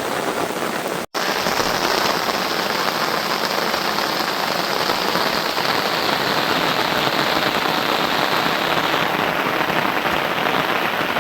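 Steady rain falling, an even hiss of many drops, broken by a momentary cut to silence about a second in.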